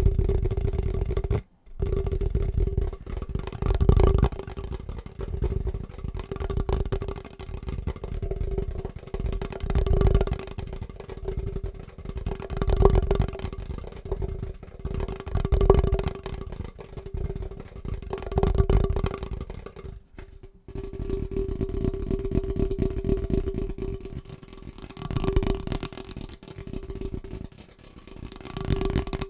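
Fast, aggressive tapping with the fingers on a household object: a dense, rapid patter that swells and eases every few seconds over a steady ringing note. It breaks off briefly about a second and a half in and again about twenty seconds in.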